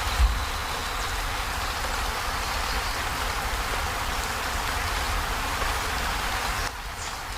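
Heavy rain on a corrugated zinc roof: a steady, dense hiss of drops over a low rumble. There is one dull thump just after the start, and the rain drops slightly in level near the end.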